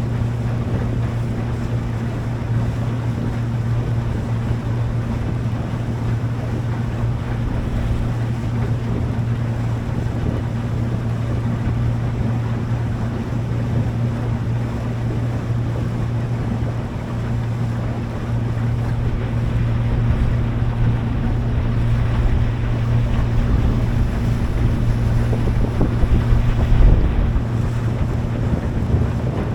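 Boat engine running at a steady hum, with water rushing past the hull and wind buffeting the microphone; a brief louder low gust or wave knock comes near the end.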